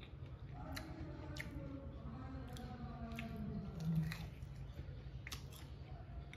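Crispy fried chicken being bitten and chewed close to the microphone: a string of sharp crunches and crackles from the fried coating, loudest about four seconds in as a fresh bite is taken from the drumstick.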